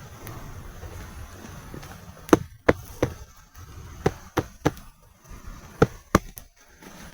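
About eight sharp chopping knocks in quick groups of two or three, starting a little over two seconds in.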